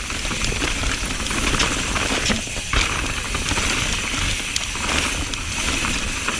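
Mountain bike being ridden over a rough trail: a steady rumble from the tyres and the ride, with scattered clicks and rattles from the bike. Wind buffets the helmet-chin-mounted action camera's microphone.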